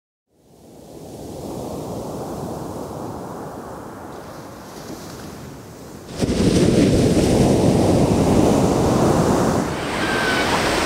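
Ocean surf breaking on a pebble beach: a steady rush of waves that fades in from silence at the start and jumps louder about six seconds in.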